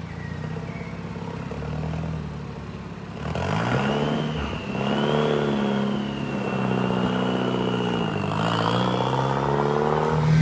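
VUHL 05's turbocharged four-cylinder engine running low, then from about three seconds in accelerating, its revs climbing, dipping and climbing again twice as with gear changes. A high turbo whine rises and falls with the revs.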